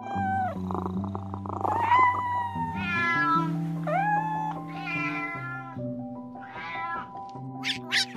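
A domestic cat meowing about six times in quick succession, each meow a short call that bends up and down in pitch, over background music of soft held notes.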